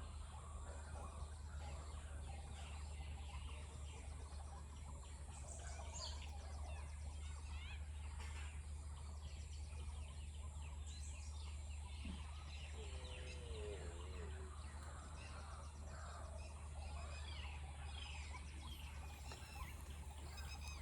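Faint outdoor ambience: scattered bird chirps and calls, with distant children's voices and a steady low hum underneath.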